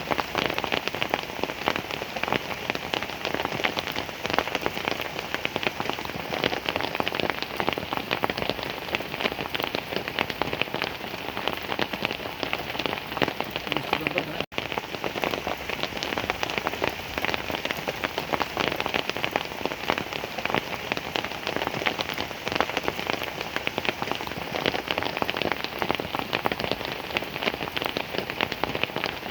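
Heavy rain falling steadily: a dense patter of countless drops hitting a surface, with a momentary cut-out about halfway through.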